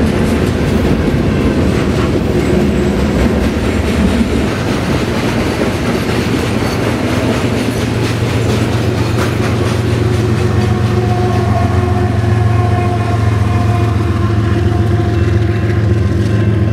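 Freight train rolling by: a steady rumble of wheels on rail, with a steady hum of several even tones coming in about five seconds in.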